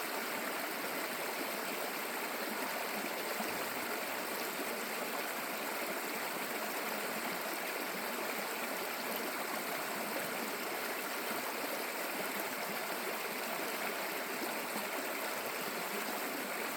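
A small stream rushing and gurgling steadily over rocks.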